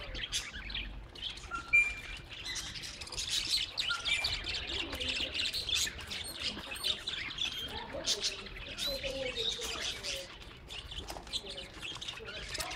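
Many small birds chirping and twittering at once: a dense, unbroken chatter of short high calls, with a few lower wavering calls in the second half.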